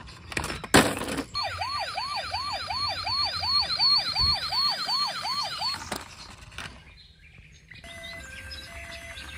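Toy police car's electronic siren sounding a fast yelp, its pitch sweeping about three times a second for some four seconds. It comes after a short loud burst of noise near the start, and a simple beeping electronic jingle plays near the end.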